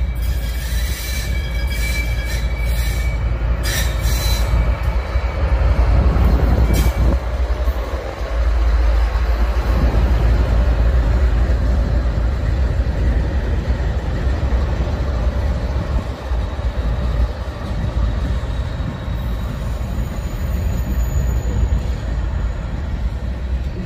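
Diesel-hauled freight train passing close by: the locomotives' engines run loud as they go past, then the freight cars rumble and clack along the rails. High steady tones and a few sharp clicks sound over the rumble in the first several seconds.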